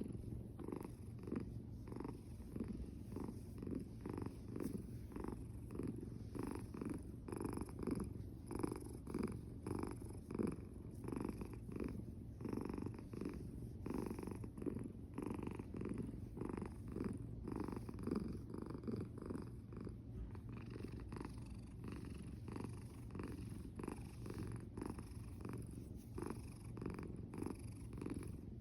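Domestic cat purring steadily, a rhythmic pulsing purr that runs without a break.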